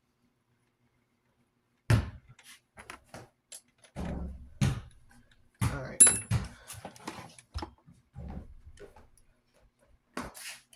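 Handling noises: a string of knocks and clunks starting about two seconds in, with a sharp metallic clink about six seconds in.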